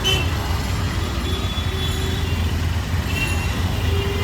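City street traffic: a steady low rumble of vehicle engines, with a few faint short tones over it.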